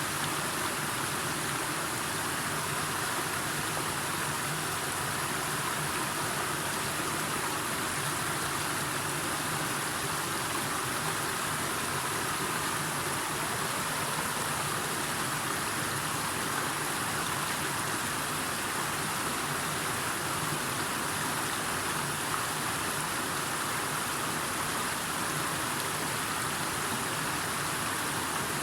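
Steady, unbroken water noise, an even hiss with no separate events.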